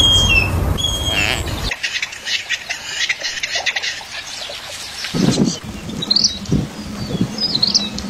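Birds calling: a short whistled note at the start, then a run of quick high chirps, and lower squawking calls joining from about five seconds in.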